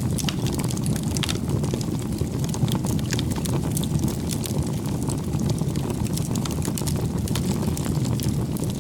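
Wood bonfire burning: a steady low rumble of flame with frequent small crackles and pops.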